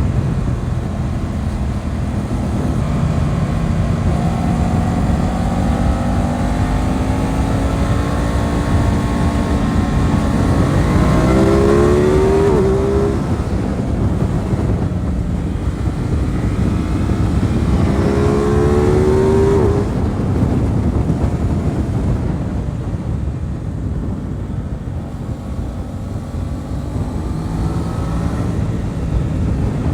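Aprilia RS 660's parallel-twin engine heard on board while riding, its revs climbing twice to a high pitch, about a third of the way in and again about two thirds in, each time dropping away afterwards.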